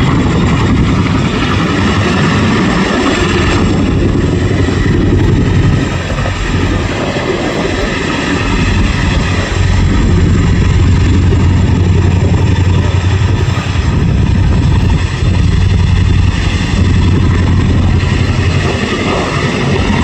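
Boeing CH-47 Chinook helicopter flying close by: the rapid beat of its tandem rotors over a steady turbine whine. The deep rotor thump grows heavier about halfway through.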